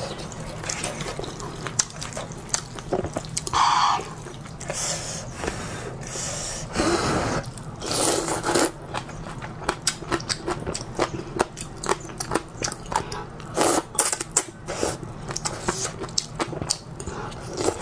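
A person eating noodles close to the microphone: many wet clicking mouth and chewing sounds, with a few longer slurps.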